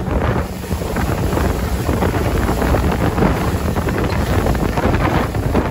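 Wind buffeting the microphone on a motorboat running at speed, over the rush of water and the boat's engine.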